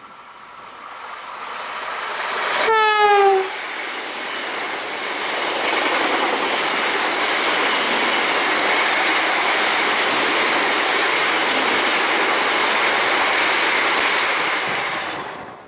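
Vande Bharat Express electric trainset approaching at speed, its rush growing louder, then one short horn blast about three seconds in that drops in pitch as the front passes. After that comes the loud, steady rush of the coaches running past on the rails, which cuts off suddenly near the end.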